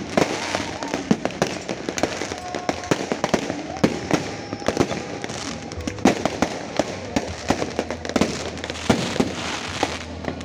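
A fireworks display going off continuously: many irregular overlapping bangs and crackles, several a second, over a steady rumbling haze.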